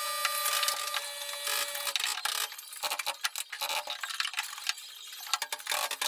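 Rapid, irregular mechanical clicking and rattling, with a faint steady tone through the first two seconds.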